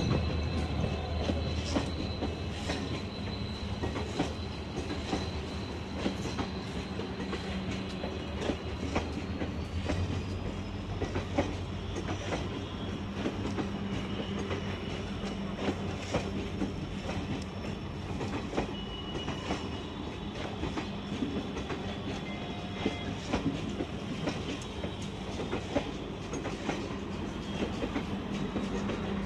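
Maharajas' Express passenger coaches rolling past on arrival, their wheels clicking irregularly over rail joints over a steady low hum. A thin high squeal holds in the background and rises slightly about ten seconds in.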